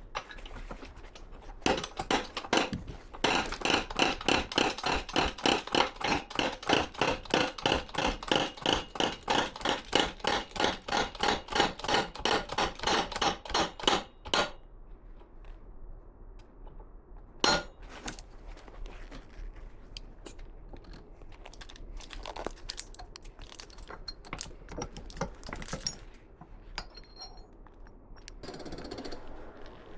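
Hammer tapping steadily on metal parts, about three ringing blows a second for some twelve seconds, then stopping; after that, scattered single knocks and clinks of metal tools and parts.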